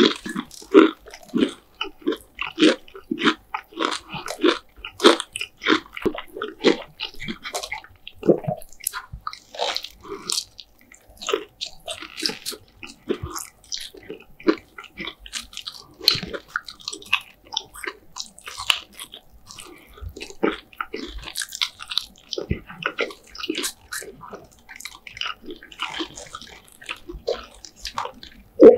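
Close-miked biting and chewing of crispy KFC fried food: a rapid, irregular run of wet crunches, several a second.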